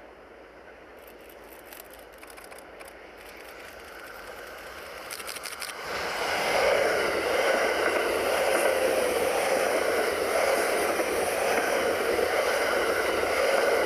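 JR 683 series electric train passing through a station at speed. Its wheel-on-rail noise grows as it approaches, jumps to full loudness about six seconds in as the cars reach the microphone, then holds as a steady loud rush while the carriages go by.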